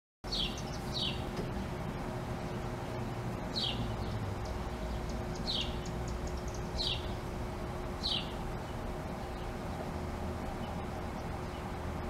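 Small songbird chirping: six short, falling chirps spaced irregularly through the first eight seconds. A steady low rumble of distant traffic runs underneath.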